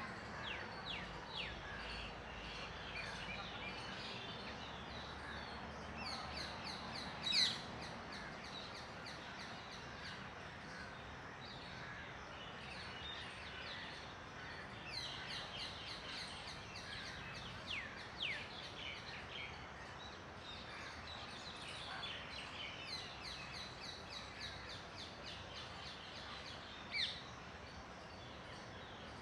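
Birds calling: repeated runs of quick, high chirps, with two louder sharp calls, one about seven seconds in and one near the end.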